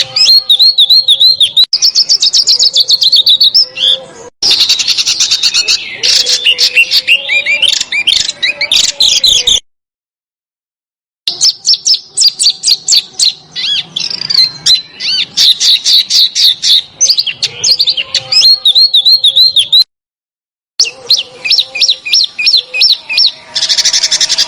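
Recorded songbird song in dense, rapid phrases of high, fast-repeated notes and chattering trills. The song stops dead twice, about ten seconds in and about twenty seconds in, where edited clips are joined.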